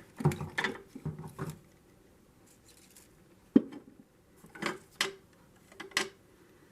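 Collected natural objects being handled on a cabinet shelf: short dry rustles and clicks in several clusters, with one sharp knock about three and a half seconds in.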